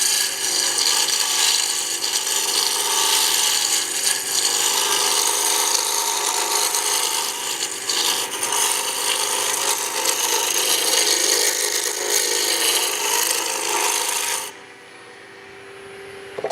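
Sharp lathe chisel cutting into spinning wood, a continuous rough scraping of the cut over the lathe motor's hum. About fourteen seconds in the cutting stops, and only the lathe running is left.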